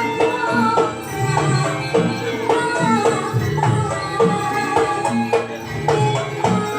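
Live Javanese jaranan accompaniment music: drums and struck gamelan notes keep a steady beat under a wavering, bending melody line.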